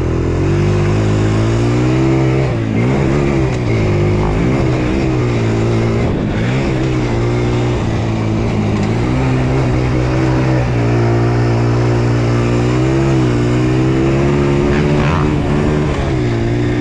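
Dirt bike engine running steadily at low revs, with a few small throttle blips that bend its pitch briefly up and down.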